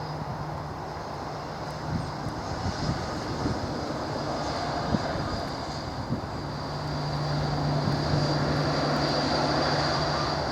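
Boeing 787 airliner's jet engines running at low taxi power after landing: a steady rushing hum with a thin high whine, growing louder about six seconds in.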